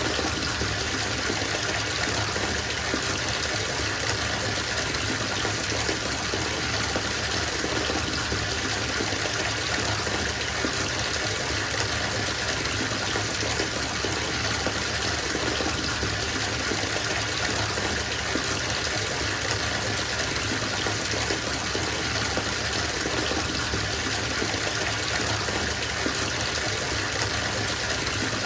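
Bathtub filling from the tap: a steady gush of running water splashing into the tub.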